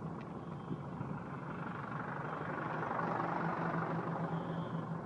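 Vehicle engine hum with road noise, steady and low, swelling a little past the middle. A few short, faint high-pitched tones come through at intervals.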